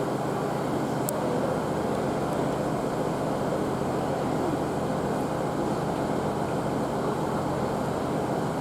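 Diesel multiple unit idling steadily, a constant engine hum with no change in pitch or level.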